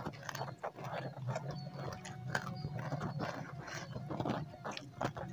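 Close-up eating sounds: chewing with irregular wet lip smacks and mouth clicks, over a steady low hum.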